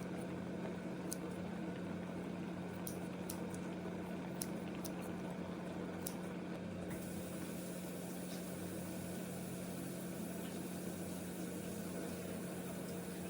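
A steady machine hum with scattered light ticks over the first six seconds or so, and a hiss that grows about seven seconds in.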